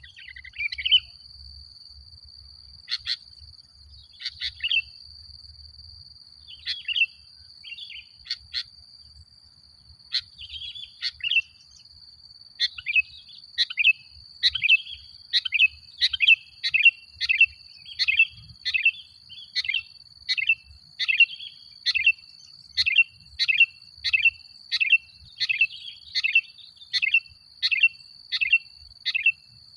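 Sooty-headed bulbul (kutilang) singing short chirping notes, scattered at first and then, from a little before halfway, a fast steady run of about two notes a second. A thin steady high tone runs underneath.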